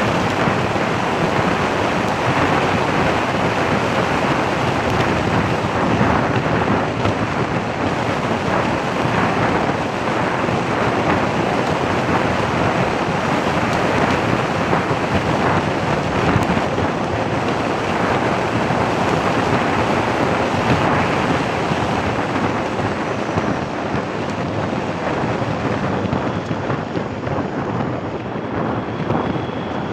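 Wind buffeting the microphone of a moving vehicle, a loud, steady rushing rumble with no other clear sound over it.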